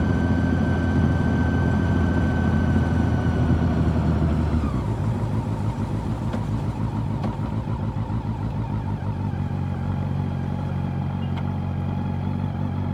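Honda CB400 Super Four's inline-four engine running steadily while riding, its revs falling about four and a half seconds in, then holding at a lower, steady pitch.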